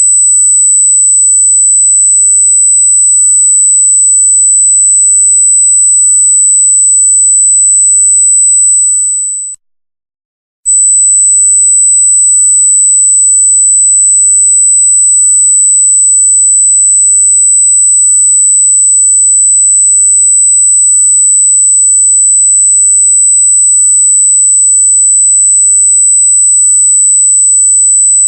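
A loud, steady, very high-pitched pure electronic tone with no other sound in it. About nine seconds in it fades quickly to silence for about a second, then comes back abruptly at full level.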